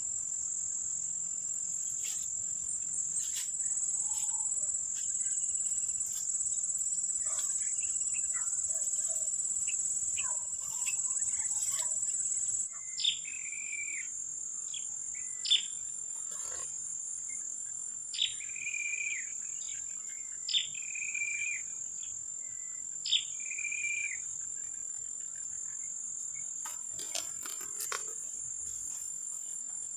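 Steady high-pitched drone of an insect chorus. From about halfway through, five loud whistled green-pigeon (punai) calls sound about every two and a half seconds, each a quick upward sweep followed by a short held note, used to lure punai in to the lime sticks.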